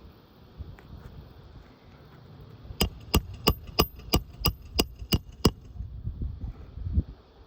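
A hammer striking nine times in quick succession, about three blows a second, starting about three seconds in; each blow has a short metallic ring, as in driving a roofing nail.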